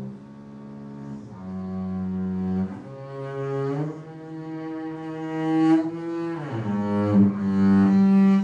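A solo instrument playing contemporary music: long held notes that move from pitch to pitch, with a slide downward about six and a half seconds in and a swell in loudness toward the end.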